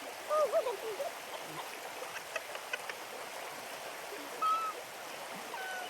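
Steady rush of flowing stream water, with a few short wavering calls about half a second in and a brief higher note a little past the middle.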